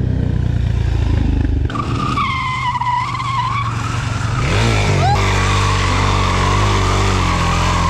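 A vehicle's tyres squealing as it skids or spins over a running engine. The squeal wavers for a couple of seconds, rises sharply about five seconds in, then holds as a steady high squeal.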